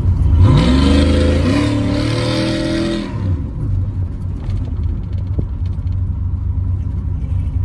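Cammed 5.3-litre V8 truck engine exhausting through a Carven R-series muffler, accelerating with its pitch rising for about two and a half seconds. It then drops back sharply about three seconds in and runs on at a steady lower rumble as the throttle is eased.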